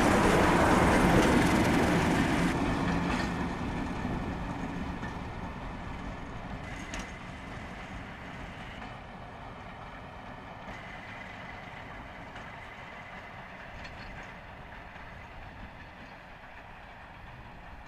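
Train carriages rolling past on the rails at close range, fading as the train moves away over the first few seconds; a fainter, steady distant rumble follows.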